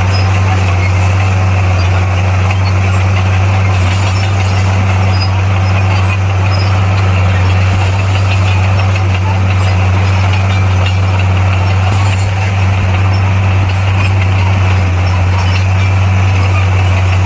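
Heavy earthmoving machine's diesel engine running steadily at an even speed, a constant deep hum with no change in pitch.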